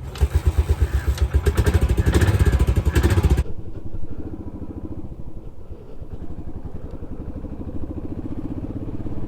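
Royal Enfield single-cylinder motorcycle engine with its fast, even thump. It is loud for the first three seconds or so, then drops abruptly to a quieter, steady running beat.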